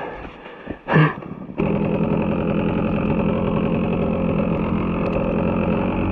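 Two-stroke KTM EXC 125 enduro motorcycle engine comes in abruptly about a second and a half in and then runs steadily at idle. Before it there are a few brief sharp sounds.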